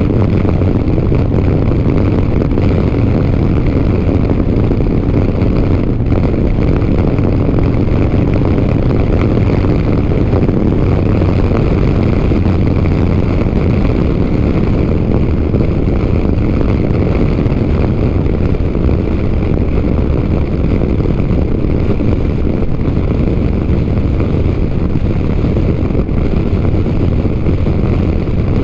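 Motorcycle engine running steadily at cruising speed, with wind rushing over the helmet microphone.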